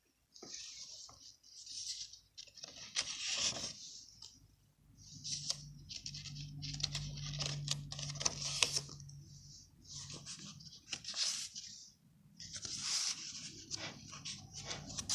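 Paper and craft materials being handled: irregular rustling, scraping and light tapping in short bursts, with a low hum running for a few seconds in the middle.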